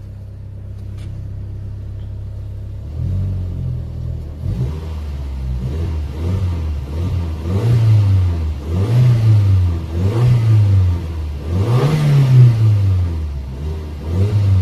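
Audi S3 8L's 1.8-litre turbocharged four-cylinder (BAM) engine, already warmed up, idling and then blipped through a series of free revs on its Milltek aftermarket exhaust. The revs rise and fall, with the highest near the end before it drops back toward idle.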